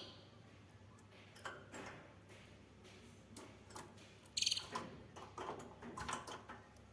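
Domestic canary in a quiet spell between songs, giving one short, rapid, high trill about halfway through, with scattered soft clicks and ticks around it.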